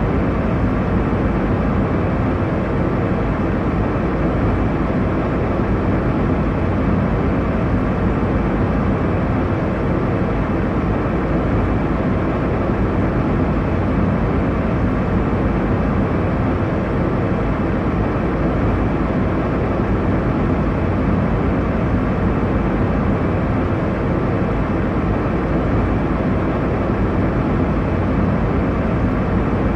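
Airliner cabin noise: a steady low rumble of engines and rushing air, even and unchanging throughout.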